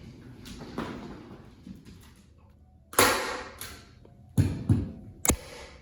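Handling noises: a noisy scrape or rustle, then two dull thumps and a sharp click near the end.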